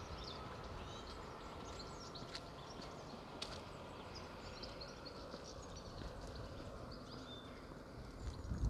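Small birds chirping and twittering in short, frequent calls over a faint, steady outdoor background noise.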